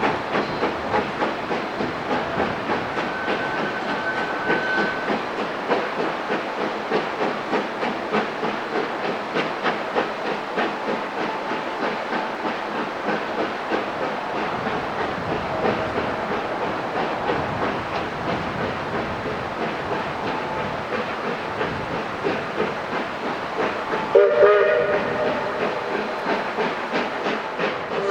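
Steam locomotive working, its exhaust chuffing in a steady rhythm about twice a second over a hiss of steam. About 24 seconds in, its whistle gives a short blast of several tones together.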